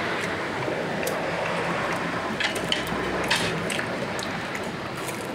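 Wet, squishy chewing of a mouthful of sauce-coated Korean fried chicken (yangnyeom tongdak), with a few crisp clicks about halfway through. Steady background noise runs underneath.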